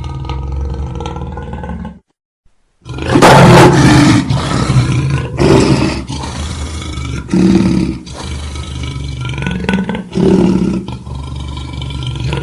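Lion roaring. A brief cut to silence comes about two seconds in, then a loud full roar, followed by a series of shorter roars every two to three seconds.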